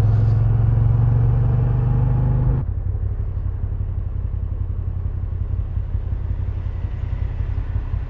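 Moto Guzzi V7 850's air-cooled transverse V-twin running steadily on the move. About two and a half seconds in, it drops suddenly to a quieter, lower running.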